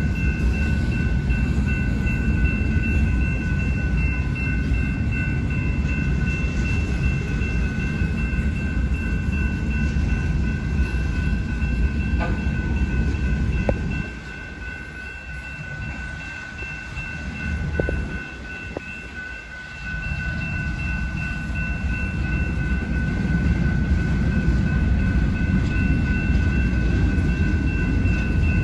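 Freight train of intermodal cars rolling past with a steady low rumble. The rumble drops off for several seconds about halfway through, then builds again. A steady high-pitched whine runs throughout.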